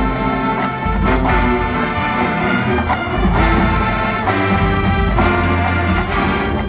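Marching band brass playing loud sustained chords, with trombones and trumpets, changing chord about every second.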